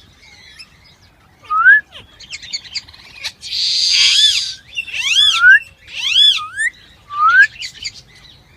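Bird calls: short rising whistles repeated several times, a harsh screech of about a second in the middle, and loud arching calls.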